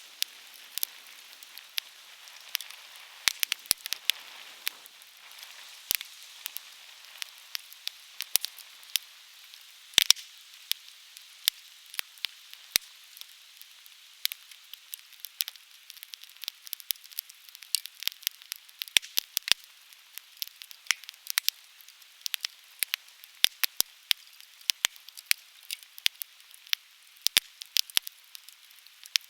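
Conifer firewood burning, crackling with many sharp, irregular snaps and pops, several a second, over a faint steady hiss.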